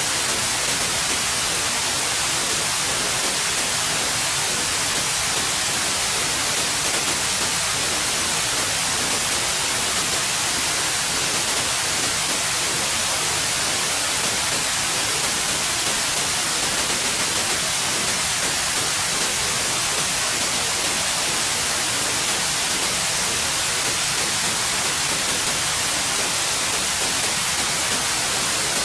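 Steady white noise: an even, unchanging hiss spread across the whole range, brightest in the high end.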